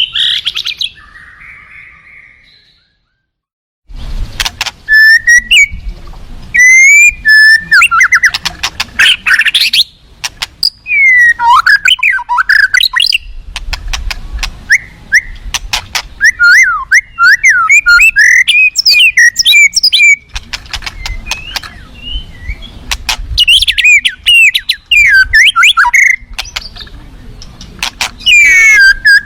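White-rumped shama singing: loud bursts of fast, varied whistled phrases with sliding notes and sharp clicks, after a short silent gap near the start.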